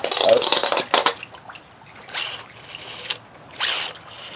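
Water splashing and trickling for about a second, with small plastic clicks of wet Beyblade parts being handled. Then shorter splashes and a single sharp click.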